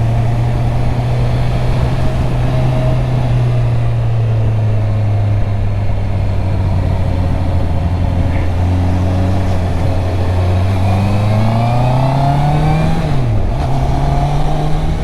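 Honda CB650R's inline-four engine through its stock exhaust, running at a steady pitch on the move, then revving up about eleven seconds in. It dips sharply near thirteen seconds and settles at a higher pitch.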